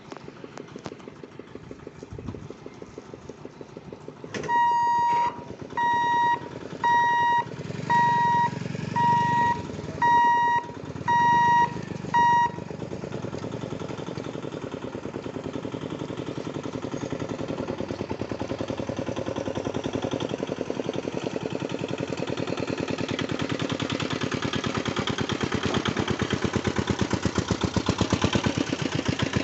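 An electronic alarm beeps eight times, a steady single-pitched tone repeating about once a second for some eight seconds. After that comes a rumbling, pulsing noise that builds steadily louder, as if a train is approaching the crossing.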